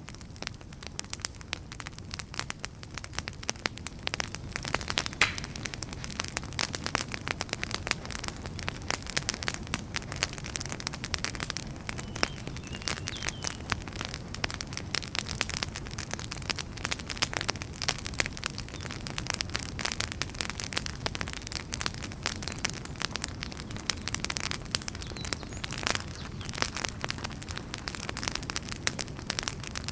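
Wood fire crackling, with many small irregular pops and snaps over a low steady rumble of the burning logs; a few sharper pops stand out, one about five seconds in.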